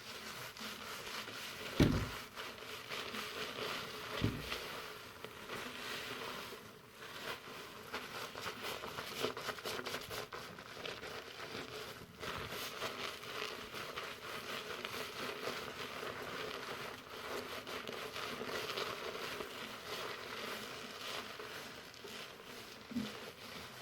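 Fingers working foamy shampoo lather through hair, giving a continuous crinkly, crackling rustle. Two short dull bumps come about two and four seconds in.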